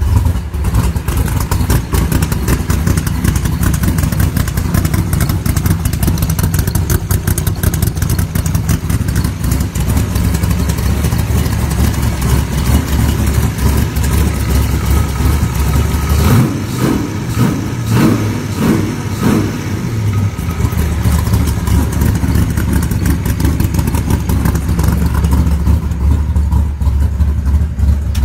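A rat rod's engine with twin carburetors running at a steady, loud idle, freshly started. About halfway through it is blipped a few times, rising and falling in pitch, then it settles back to idle.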